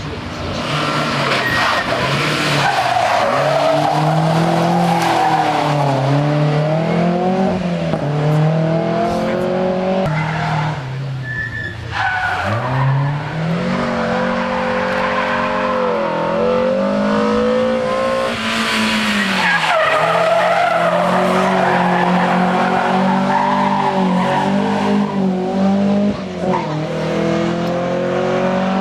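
Rally car engine running hard, its revs rising and falling repeatedly through gear changes and lifts on a timed stage.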